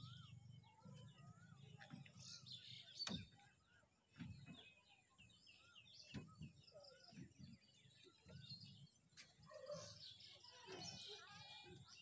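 Faint birds chirping and trilling over a low rumble, with a few sharp clicks; the strongest click comes about three seconds in.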